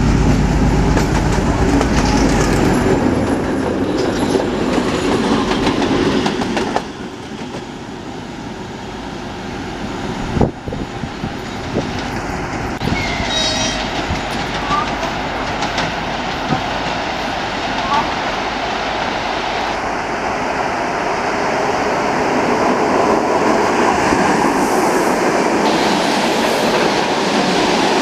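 Trains on the rails: a diesel locomotive engine drones low for the first few seconds and drops away at about seven seconds in. Another train's rolling wheel clatter then builds steadily as it approaches, with a short high-pitched sound at about thirteen seconds.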